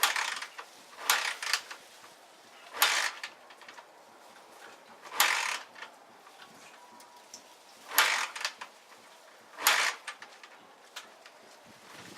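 Honda XL125S motorcycle being kick-started: six short, sharp strokes at uneven intervals of about two seconds, the engine turning over without catching.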